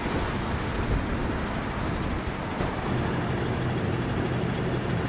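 Tow truck driving: steady engine and road noise.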